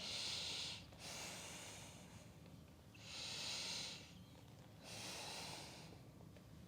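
A woman's audible breathing during a yoga pose: four soft, airy breaths of about a second each, a second or two apart.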